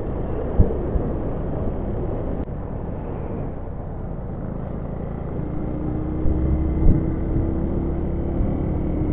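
Motorcycle running at road speed, its engine and wind rushing over the rider's microphone in a dense steady rumble, with a couple of short thumps. About halfway through, a clearer engine tone comes in and rises slightly.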